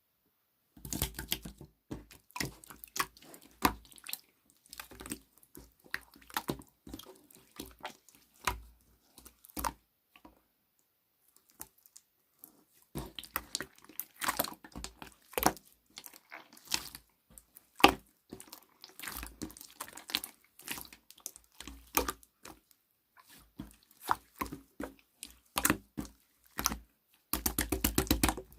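Slime being squished and kneaded by hand, with irregular wet clicks and pops, a pause of a few seconds about a third of the way in, and a rapid run of clicks near the end.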